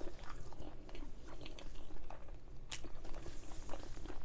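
Close-miked chewing of a mouthful of pilau rice and paneer tikka masala: many small wet mouth clicks, with one sharper click about two and a half seconds in.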